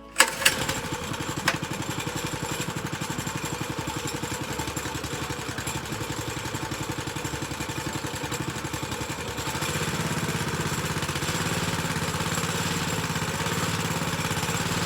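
The Massimo/Baja Warrior MB200 mini bike's small single-cylinder four-stroke engine starts on choke and runs with a fast, even putter. About two-thirds of the way through it runs a little louder and steadier.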